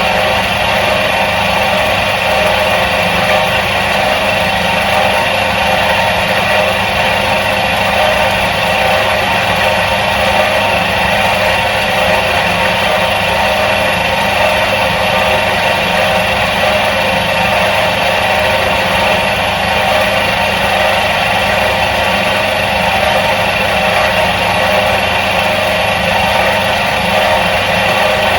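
Electric motor of a 1977 Soviet washing machine running steadily, an even, unchanging drone of steady tones with no change in speed or loudness.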